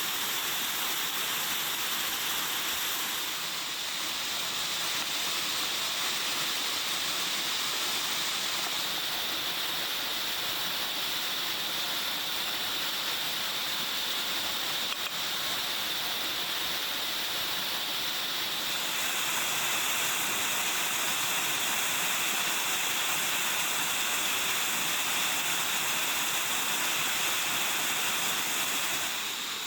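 Steady rushing and hissing of a high waterfall, its tone changing abruptly a few times as the sound jumps between shots.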